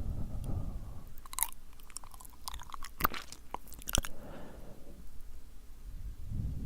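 Close-miked ASMR mouth sounds: wet, sticky lip smacks and tongue clicks, with soft breathy blowing into the microphone near the start, around the middle and at the end.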